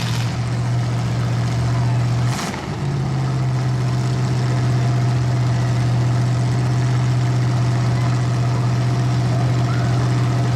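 Demolition-derby truck engine idling steadily with a deep hum during a red-flag stoppage; about two and a half seconds in the hum briefly breaks and then carries on a little higher.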